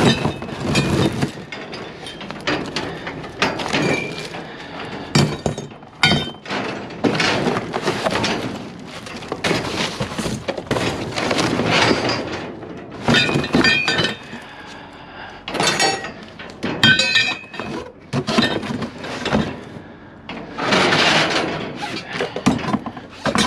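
Pieces of scrap metal clanking, scraping and rattling against each other as they are pulled out and stacked in a construction dumpster: a run of irregular knocks and clatters, some ringing.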